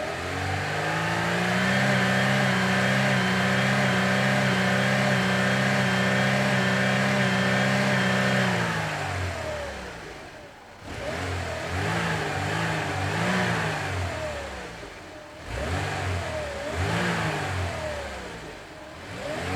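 Car engine running at a steady pitch for about eight seconds, then fading, followed by two spells of revving up and down.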